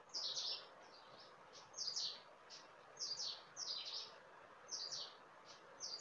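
A small bird chirping in short clusters of quick falling notes, about once a second, over a faint steady hiss.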